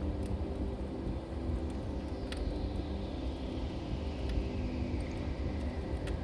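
Wood fire burning in a fireplace: a steady low roar with scattered sharp crackles and pops, the clearest one a little over two seconds in. A faint whistle slides down in pitch through the middle.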